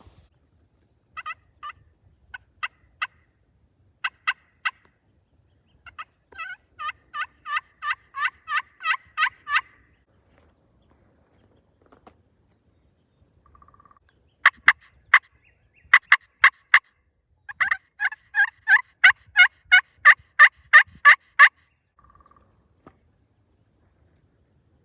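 Turkey call imitating hen yelps to bring a gobbler in: runs of short, evenly spaced yelps, about three a second. The first runs build in loudness, and after a pause come two louder runs.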